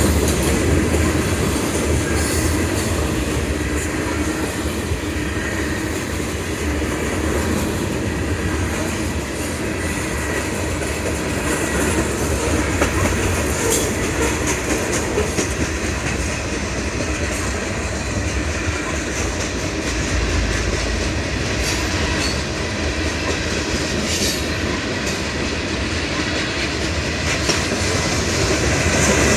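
Freight cars of a mixed freight train rolling past, with a steady rumble of wheels on rail and clickety-clack over the rail joints.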